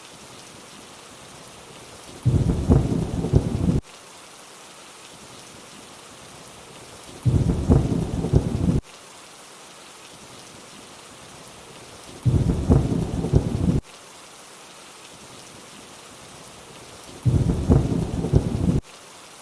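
Steady rainfall hiss with a low rumble of thunder four times, once every five seconds, each about a second and a half long and starting and stopping abruptly.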